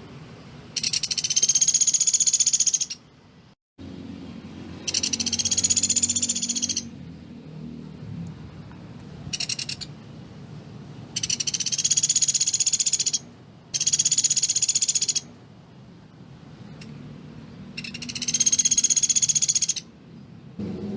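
Pelatuk beras bird giving its rapid, tightly packed trill, the dense 'shooting' call used as a masteran for training other songbirds. About five trills of roughly two seconds each, with one short burst, over a faint low hum.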